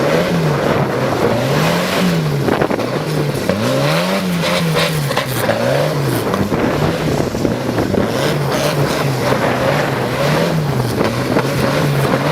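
Vehicle engine revving up and falling back over and over, its pitch rising and dropping every second or two over a rough, noisy background.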